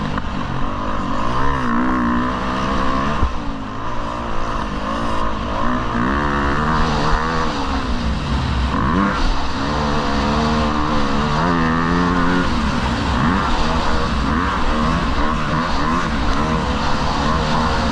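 Motocross bike engine revving up and down over and over, its pitch climbing and dropping every second or two.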